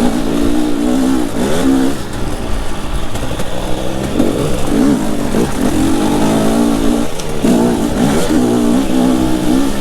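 Two-stroke enduro dirt bike engine being ridden hard, revving up and dropping back again and again as the throttle is worked, over a steady rush of noise.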